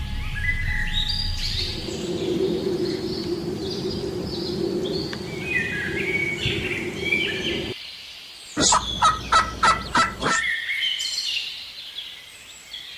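Turkeys calling: high chirping calls throughout, with a run of about seven sharp calls in quick succession just past the middle.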